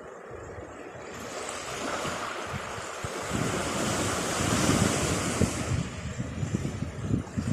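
Atlantic Ocean surf: a wave breaks and its hissing wash builds over the first few seconds, then eases off after about six seconds, with wind gusting on the microphone.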